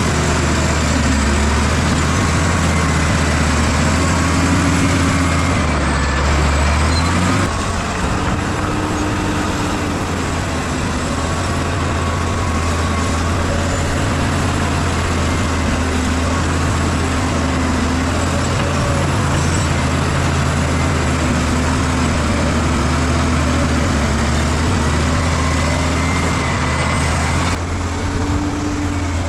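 Bulldozer's diesel engine running steadily, a deep drone whose pitch wavers slightly up and down as it works.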